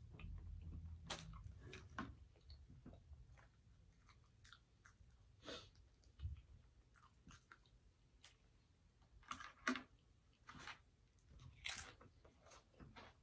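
Chewing and wet mouth sounds of someone eating close to a microphone, with scattered light clicks and smacks, some of them a fork scraping food from a plastic container.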